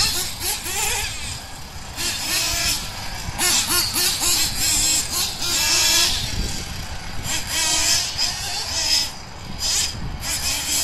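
Twin nitro engines of a 1/8-scale Kyosho ST-RR truggy revving in quick bursts, the pitch repeatedly rising and falling as the throttle is worked.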